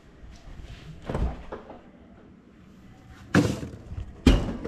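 Hard objects being handled, with a few short clattering knocks over a low background: one about a second in, a louder one at about three and a half seconds, and another just after four seconds.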